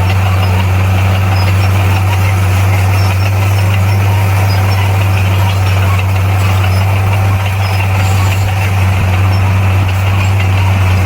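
Diesel engine of heavy earthmoving machinery running at a steady speed, a loud even low hum that does not rise or fall.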